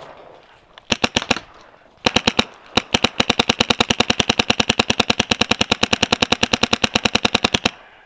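Paintball marker firing: a short burst of about five shots, a few more, then a long even stream of rapid fire at about ten shots a second that stops suddenly near the end.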